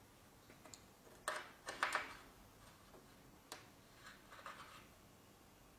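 Scattered sharp metallic clicks and taps from adjusting the set screws of a connector bar joining two aluminium track-saw guide rails: a quick cluster about two seconds in, then a single click and a few fainter ones.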